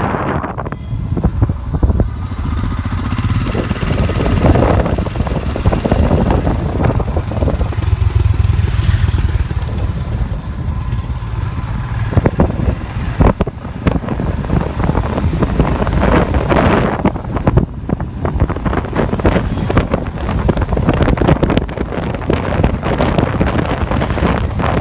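Royal Enfield Himalayan motorcycle's single-cylinder engine running while riding, with wind buffeting the microphone.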